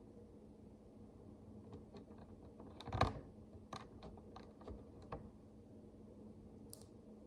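Tiny plastic micro bricks clicking and tapping as they are handled and pressed together: a run of light clicks, the loudest about three seconds in, over a faint steady hum.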